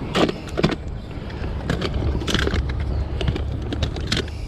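Low wind rumble on the microphone with scattered rustling and clicking handling noises.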